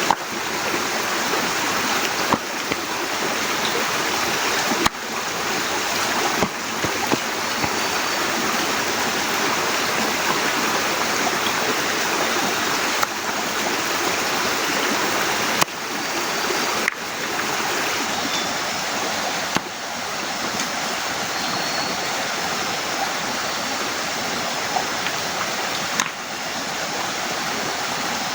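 Heavy rain falling steadily, a dense, loud hiss with a few sharp drip-like taps; the hiss dips briefly several times.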